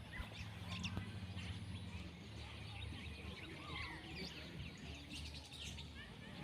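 Wild birds calling: many short chirps and whistles from several birds, over a steady low rumble.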